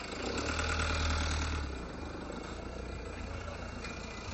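A vehicle engine running: it swells louder over about the first second and a half, as if pulling close past, then settles to a steady run.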